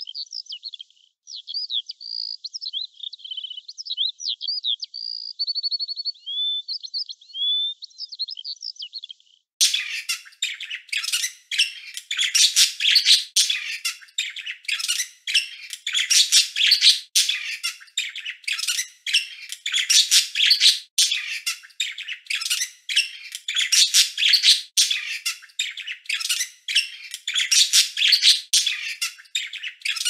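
Recorded birdsong: a bird singing short whistled phrases with a brief trill, then about nine and a half seconds in, a sudden switch to a louder, busier recording of rapid chirping and squawking.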